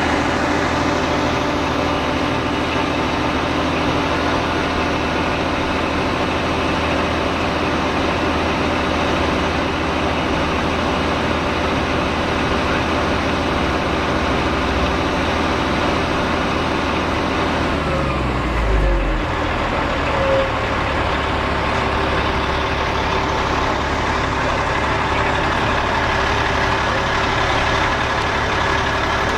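Fire truck's diesel engine running steadily. About two-thirds of the way through its pitch falls with a brief low rumble, and it settles into a lower, steady run.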